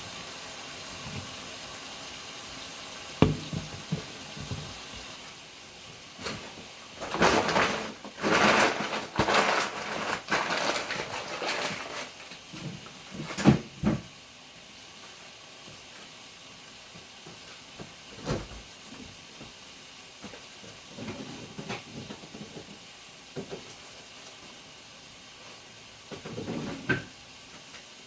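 Household handling sounds: scattered sharp knocks and clicks, with a few seconds of uneven rushing noise in the middle.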